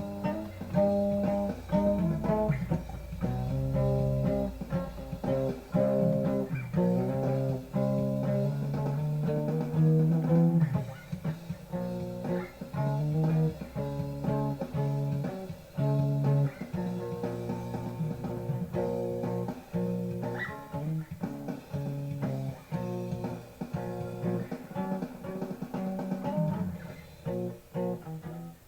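Guitar music: plucked and strummed notes in a steady run of chords, with a low bass underneath that fades out about halfway through.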